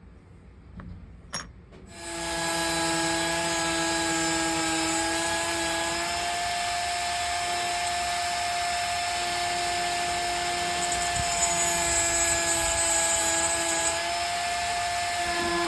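A small electric power tool switches on about two seconds in and runs at a steady pitch with a strong hiss, then cuts off suddenly at the end.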